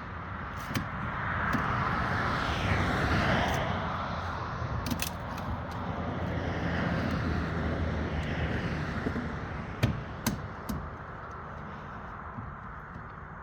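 A few sharp knocks, the loudest about ten seconds in, over a steady rushing background noise that swells and fades.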